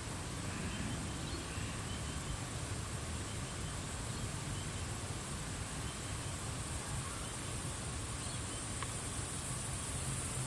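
Australian bush ambience at dusk: a steady high-pitched insect drone, with a few faint bird chirps and a low rumble underneath.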